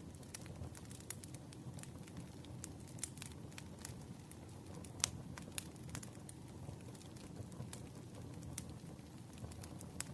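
Wood fire burning: sharp, irregular crackles and pops over a low steady rumble of flames, one louder pop about halfway through.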